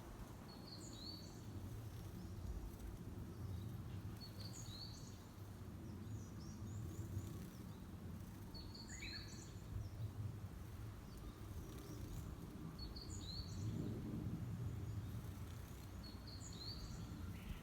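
A wild songbird repeating the same short, high chirping phrase about every four seconds, five times, over a steady low background rumble.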